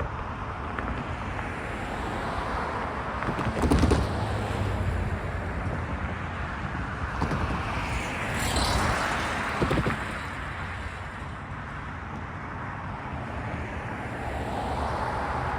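Freight train cars rolling past on the track: a steady rumble and rail noise with a few wheel knocks and a brief hissing swell about halfway through.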